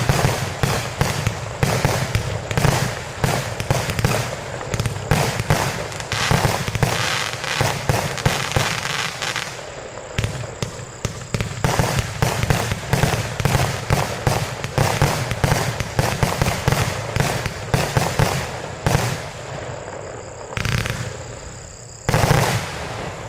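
A 110-shot Commander compound firework cake firing a rapid, continuous barrage of launches and bursts, which thins out about 20 seconds in before a last loud burst near the end.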